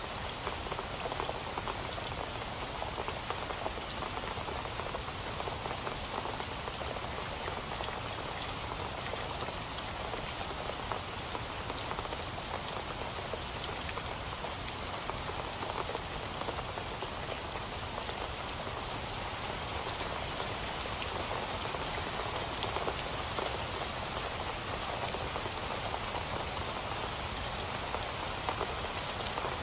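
Steady rain falling on a surface, a dense even patter of drops with fine individual ticks.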